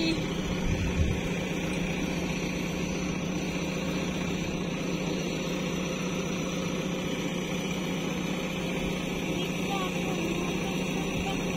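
Heavy diesel engine running steadily at a constant speed, with a couple of low thumps about a second in.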